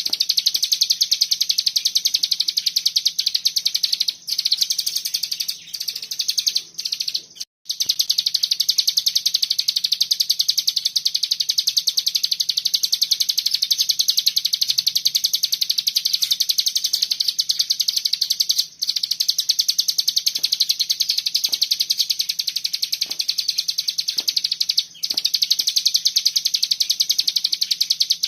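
Cigun (ciblek gunung) songbird singing its fast, dense 'bren' trill: a continuous high-pitched run of rapid notes, broken by a few short pauses, the longest about seven and a half seconds in.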